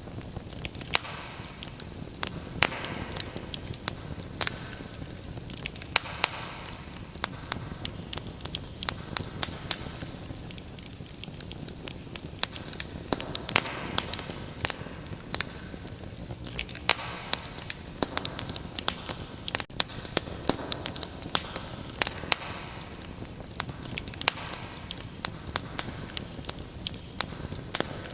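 Wood fire crackling in a fireplace: a steady stream of irregular sharp pops and snaps over a low hiss.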